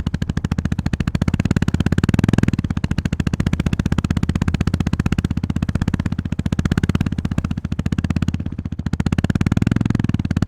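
Honda GB350S's air-cooled single-cylinder engine pulsing at low revs under way, easing off briefly a few times as the throttle is rolled back.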